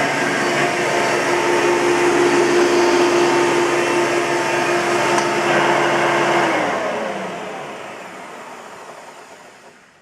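1999 Hoover Soft & Light Elite upright vacuum cleaner's motor running steadily with a humming tone, then switched off about six and a half seconds in and spinning down, its pitch and level falling away over the last few seconds. The motor bearing is worn: freshly greased, it still sounds bad enough that the owner judged it needs replacing.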